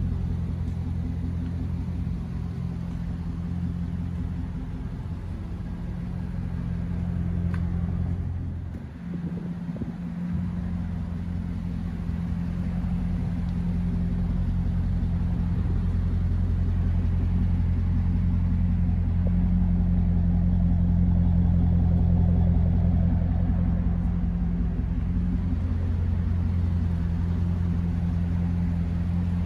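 2005 Chevrolet Corvette's 6.0-litre LS2 V8 idling steadily with a low rumble.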